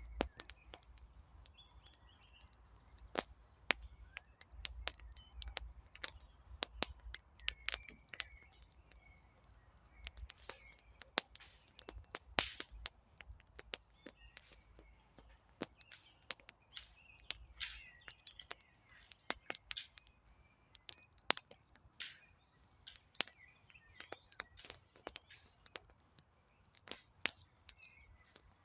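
Wood campfire crackling, with irregular sharp snaps and pops throughout. Birds chirp faintly in the background.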